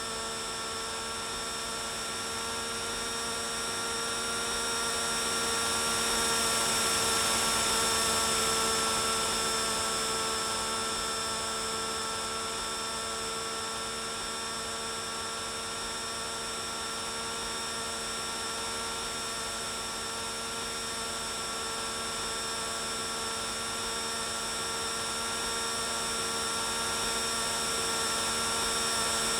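Small electric RC helicopter motor and rotor running with a steady high whine, growing slightly louder twice.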